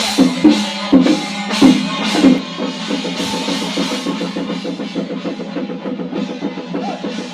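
Chinese ceremonial drum and percussion ensemble playing: a few heavy beats about half a second apart, then, from about two seconds in, a lighter, quicker run of strokes at roughly four or five a second.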